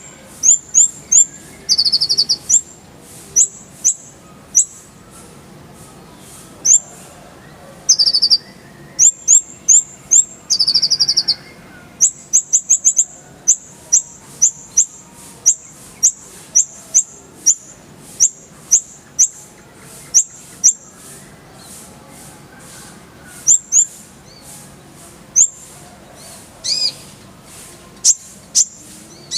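A kolibri ninja (a sunbird) singing: short, sharp, very high-pitched notes, often in quick rolling runs, broken by a few lower buzzy trills.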